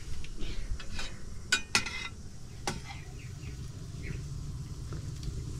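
Metal utensil clinking and tapping against a pot, with a few light taps and two sharp ringing clinks about one and a half and two seconds in.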